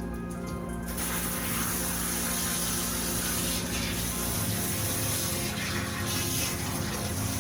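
Water running steadily, as when a cat is rinsed in the grooming bath, starting about a second in.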